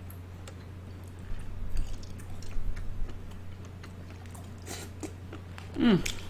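Close-miked chewing and wet mouth sounds of someone eating boiled crawfish, with scattered small clicks and smacks. A brief falling hum of the voice comes near the end, over a steady low electrical hum.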